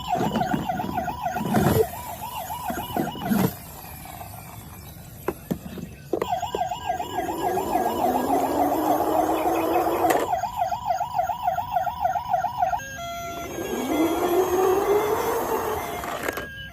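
A toy vehicle's battery-powered electronic siren wailing in a fast warble, about four wobbles a second. It is heard twice, with plastic clicks and knocks at the start. A rising electronic whine sounds twice with it, and short beeps come near the end.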